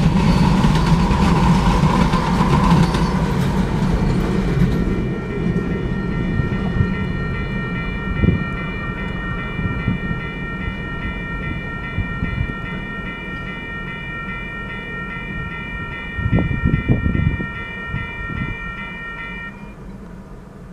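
Freight train passing and then moving away: loud rumble and wheel noise for the first five seconds, fading steadily after that. From about five seconds in until near the end, a steady high-pitched tone of several pitches sounds over the fading rumble.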